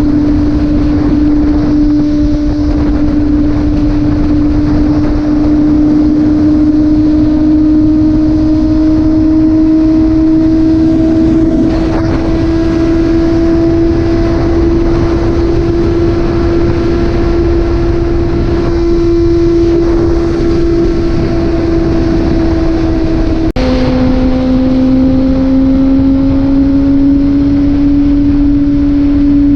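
Motorcycle engine under way, a steady tone slowly rising in pitch as it accelerates, with a sudden drop in pitch near the end from an upshift before it climbs again. Wind rush on the microphone underneath.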